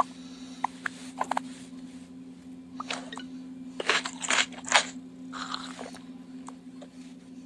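Two short squeaks, then a burst of crunching about three to five seconds in, over a steady low hum.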